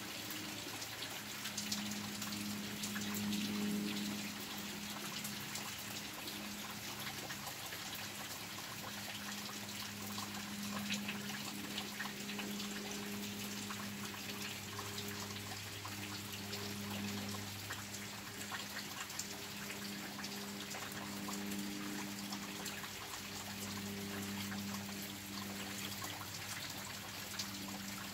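Heavy rain falling steadily: a dense, even patter of drops, with a steady low hum underneath.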